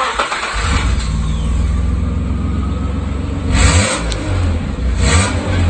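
Nissan engine with its muffler removed and exhaust leaving through the catalytic converter alone: it catches right at the start, then runs loud, with two brief revs about three and a half and five seconds in.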